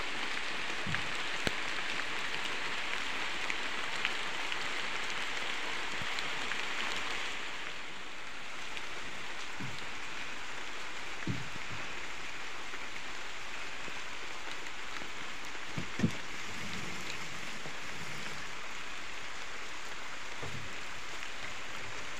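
Steady rain falling on foliage and a muddy track, a constant hiss, with a few dull thumps, the loudest about two-thirds of the way through.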